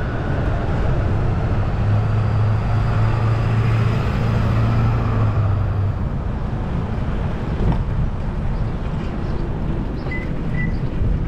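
City road traffic heard from a moving bicycle: a steady rush of vehicles, with a low engine hum from a passing vehicle for a few seconds, from about two to six seconds in.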